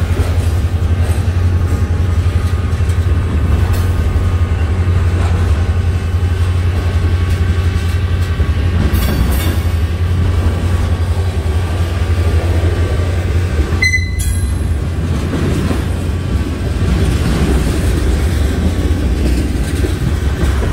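Freight train passing at close range: a steady, loud low rumble of the train with the rail cars rolling by, and one sharp click about two-thirds of the way through.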